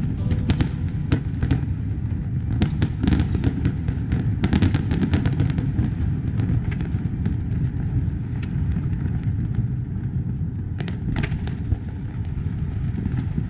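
Fireworks display: many sharp bangs and crackles, thickest about four seconds in and thinning out later, over a continuous low rumble of booming shells.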